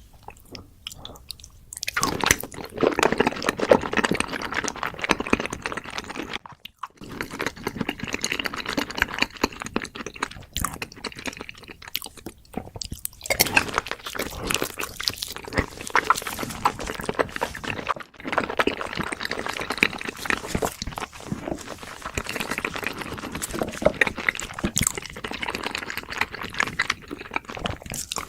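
Close-miked chewing and crunching with wet mouth sounds: a person eating in big bites, with brief pauses between bites.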